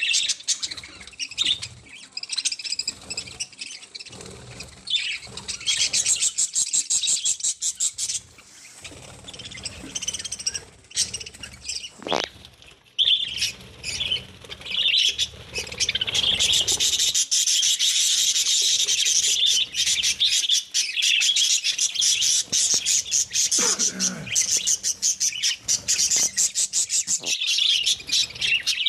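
Budgerigars chattering continuously in a dense stream of rapid high twitters and chirps, growing busier and louder about halfway through.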